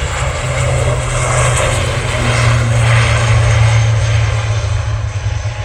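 Jet airliner engines at high power, a broad rushing noise that swells to a peak a few seconds in and then begins to fade as the aircraft passes.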